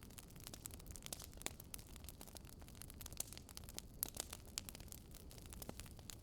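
Wood fire crackling: irregular sharp pops and snaps, several a second, over a soft low rumble.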